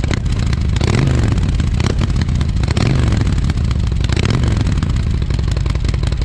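Harley-Davidson Sportster Forty-Eight (XL1200X) air-cooled 1200cc V-twin running through its exhaust. The throttle is blipped three times, and the pitch rises and falls with each blip.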